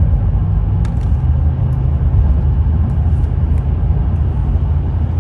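Steady low rumble of a car's engine and road noise, with a few faint clicks about a second and a half apart.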